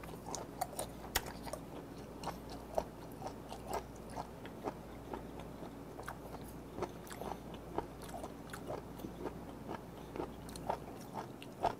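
Close-miked chewing of a mouthful of abalone: soft, wet mouth clicks and smacks, a few a second, irregular.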